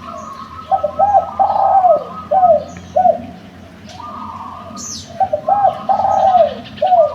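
Derkuku dove cooing in two phrases of several short falling coos, the first about a second in and the second about five seconds in. Small birds chirp faintly higher up.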